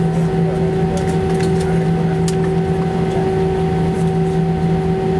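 Airbus A319-115 cabin noise: its CFM56 jet engines running steadily with a constant droning hum under a loud, even rush of engine and air noise.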